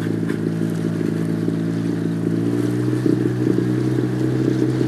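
HDX 5 hp outboard motor running steadily under way, a brand-new engine on its first run-in.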